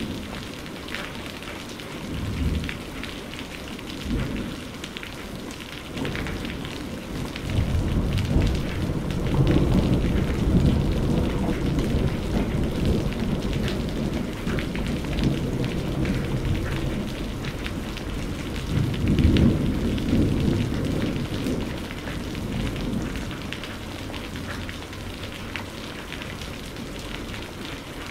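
Steady rain falling hard, with rolling thunder underneath. Low rumbles come about two and four seconds in, then a long rumble builds from about eight seconds and fades after fourteen, and another swells near twenty seconds.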